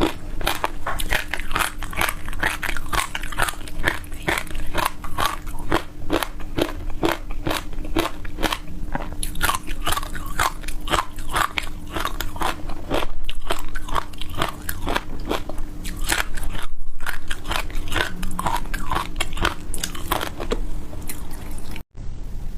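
Close-miked crunching and chewing of dry passion fruit seeds: a dense run of rapid crisp crunches over a faint steady hum. The sound cuts out briefly near the end.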